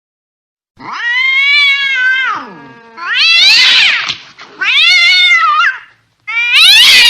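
An angry cat yowling: four long, drawn-out caterwauls in a row, each swelling, wavering and sliding down in pitch, starting after a moment of silence.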